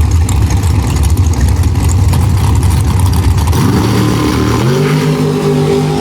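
Drag race cars making a pass down the strip: a loud, heavy engine rumble, then, about three and a half seconds in, an engine note that rises in pitch and holds steady.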